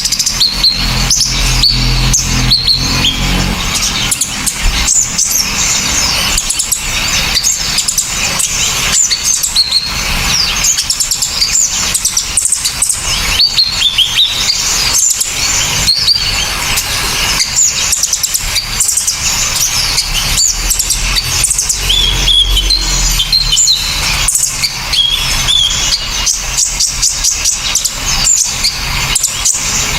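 Small songbirds calling without a break: dense, sharp, high-pitched chirps, quick trills and short whistled glides, with a low rumble underneath.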